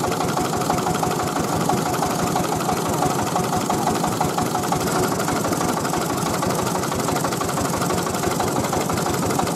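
Tiger 24 hp diesel engine of a mobile rice-milling machine running steadily.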